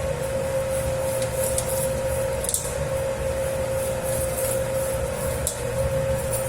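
Dough kneading machine working a 10 kg batch of pizza dough: a steady motor hum with a constant mid-pitched whine, and scattered soft ticks from the kneading.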